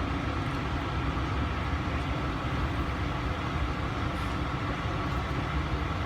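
Steady cabin noise of a Boeing 777-300ER: an even rush of air-conditioning air over a low rumble, with a faint steady tone.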